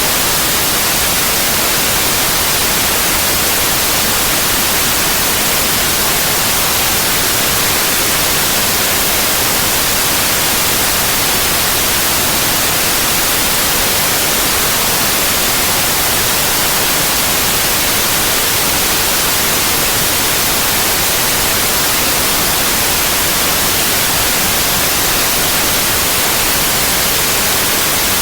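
Synthetic white noise: a steady, even hiss with no changes or interruptions.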